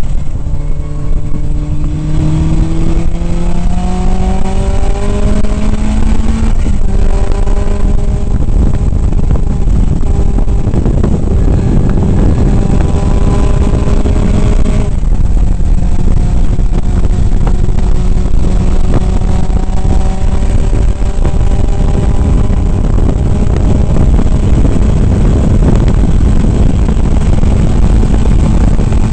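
Onboard sound of a 1967 Datsun 2000 roadster's four-cylinder race engine pulling hard, its note climbing with the revs and dropping about six and again about fifteen seconds in as it shifts up, then holding steady and slowly rising. A heavy low wind and road rumble runs under it.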